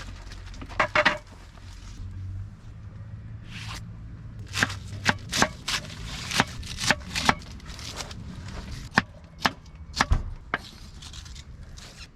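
A run of sharp knocking or chopping strokes, roughly two a second, starting about four seconds in and stopping about ten seconds in, after a brief pair of knocks near the start.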